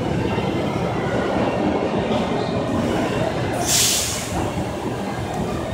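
Steady rumble of a train running through the station, with a short, loud hiss about three and a half seconds in.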